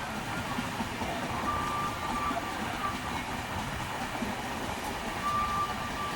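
Running noise of an express passenger train on the move: a steady rumble of wheels on track, with a brief high-pitched tone about a second and a half in and again near the end.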